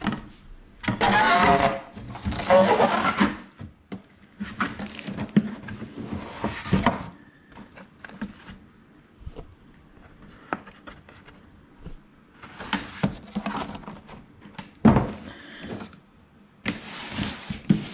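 A cardboard box and its packaging being handled as it is packed and closed: several loud rustling swishes with scattered knocks and thunks.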